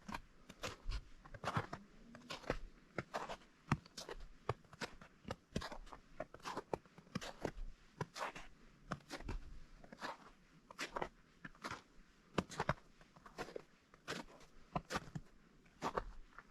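Footsteps crunching on partially melted snow at a steady walking pace, about two steps a second.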